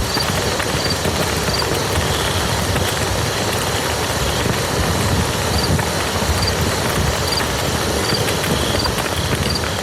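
Steady rain falling onto muddy ground: an even, unbroken hiss. Through it, a faint high chirp repeats a little faster than once a second, in two runs with a pause between them.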